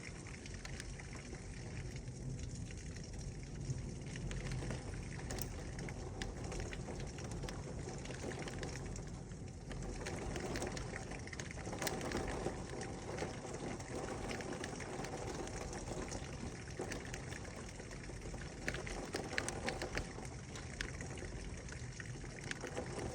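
Heavy rain falling steadily, with scattered sharp ticks of drops and splashes.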